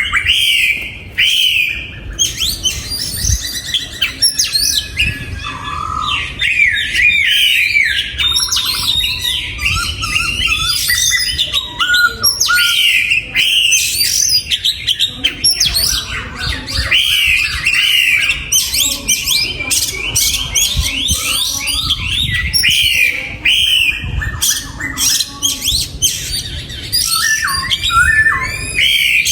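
Oriental magpie-robin singing: a continuous, varied run of short whistled notes, many sliding upward, mixed with short harsh clicking notes.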